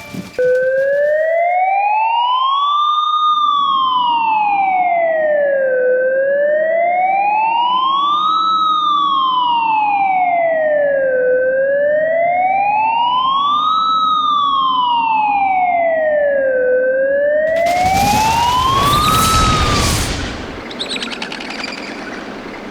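Emergency siren in a slow wail, its pitch rising and falling about every five seconds. Near the end a burst of noise joins it and the siren fades away.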